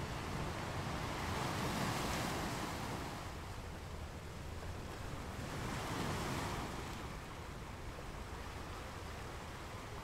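Ocean surf: two waves swell and wash in, one about two seconds in and another about six seconds in, over a steady hiss.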